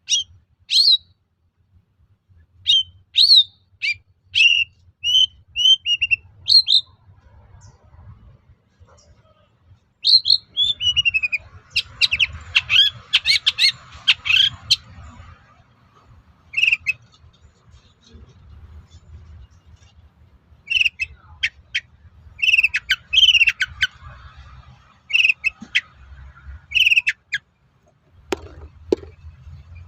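Long-tailed shrike (cendet) calling: short, sharp, high notes in groups. Two dense, rapid chattering bouts come about a third of the way in and again near the end, over a faint low hum.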